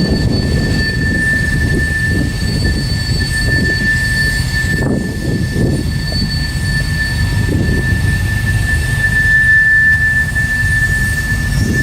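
Freight train rolling past with a steady low rumble, and a constant high-pitched wheel squeal.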